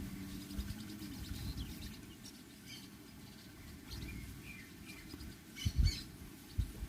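Small birds chirping in short, scattered calls over an outdoor rural background, with low rumbling thumps, the loudest near the end.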